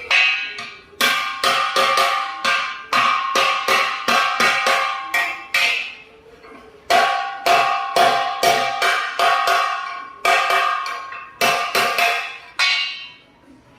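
Heavy hammer blows on the thick steel bumper bracket of a Hino 500 truck, struck again and again at an uneven pace, each blow ringing out with a metallic clang; the ring changes pitch about halfway through.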